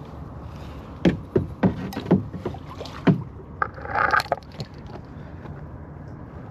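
Kayak and paddle knocking and clattering in a quick string of sharp knocks for about two seconds, then a brief rustle or splash.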